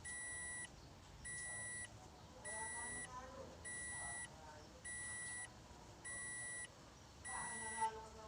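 An electronic beeper sounding a steady, high-pitched beep about once a second, each beep a little over half a second long, eight in a row. Faint voices are heard under it.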